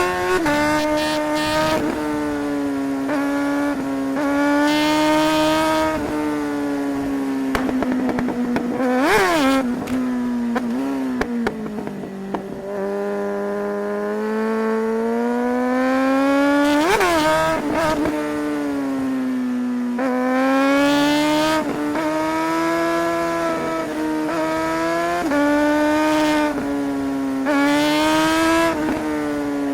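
Suzuki GSR 600's inline-four engine pulling through the gears, its pitch climbing and stepping back down with quick gear changes. A few sharp revs shoot up and fall back, about every eight seconds.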